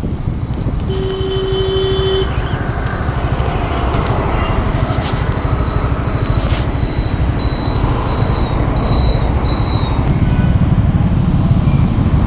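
Steady road-traffic rumble, with a vehicle horn sounding one held note for about a second near the start.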